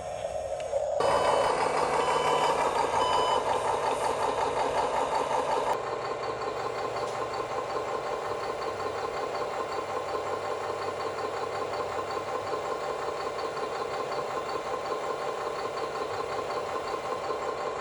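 Scale diesel engine sound from RC construction machines, a fast, even chugging, with a few short reversing beeps in the first seconds. The sound changes abruptly about six seconds in and settles into a steadier, slightly quieter chug.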